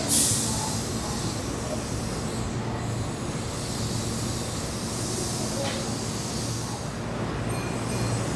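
Keihan electric commuter train at the station: a steady rumble and hum of the train, with a sudden high hiss right at the start.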